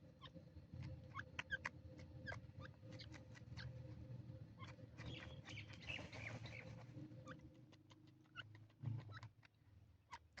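Faint, irregular short clicks and chirps from a partridge, dozens of them, with a thicker run in the middle, over a low steady hum.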